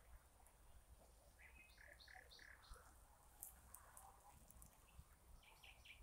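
Faint bird calls: a short run of three or four evenly spaced notes about a second and a half in, and another similar run near the end, over a low rumble.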